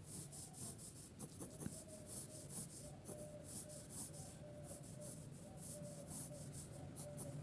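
Faint scratching of a drawing tool on paper, a run of short repeated strokes as shapes are sketched.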